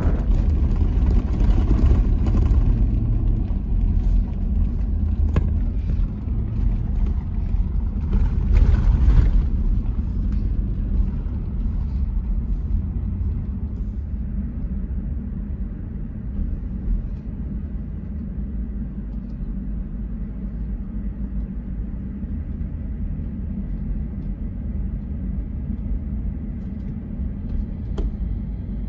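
Toyota Land Cruiser 100 series driving on a dirt trail: a continuous low engine and road rumble. Louder rushes of noise come in the first ten seconds, then it settles to a steadier rumble.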